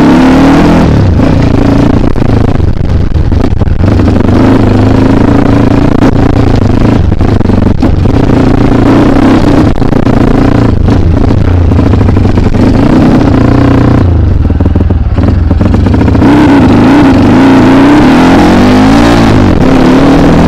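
Kawasaki KLX trail bike's single-cylinder engine, loud, revving up and down repeatedly as it is ridden over rough ground, with occasional short knocks.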